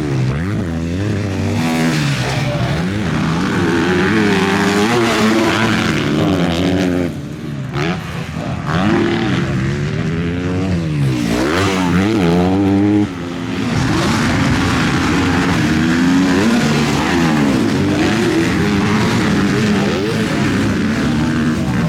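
MX2 motocross bikes racing, several engines revving up and down over and over as the riders accelerate, shift and back off, with the pitch swinging constantly. The level dips briefly around seven seconds in and drops suddenly at about thirteen seconds before the engines pick up again.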